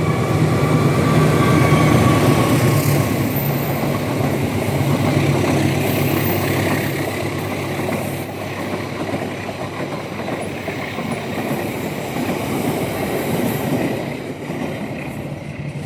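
Train hauled by a CC206 diesel-electric locomotive rolling past at a level crossing: a steady rumble of wheels on the rails with a low engine hum in the first half, getting quieter after about eight seconds.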